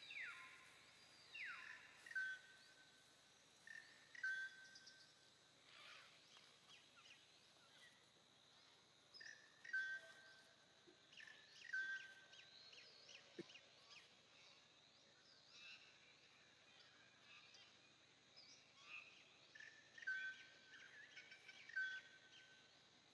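Outdoor ambience with birds calling: short whistled notes repeat every second or two, with a few falling calls near the start, over faint steady background noise.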